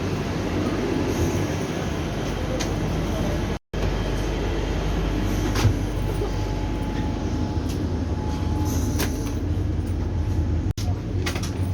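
Steady low hum and rush inside a Vande Bharat Express coach, with a few light clicks and knocks. The sound cuts out completely for an instant twice.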